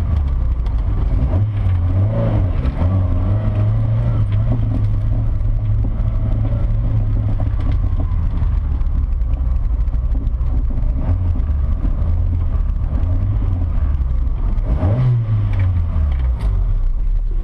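Imp-engined Davrian Mk8 running, heard onboard over a constant hiss of wind and wet-road noise. About fifteen seconds in, a brief rise and fall in engine pitch.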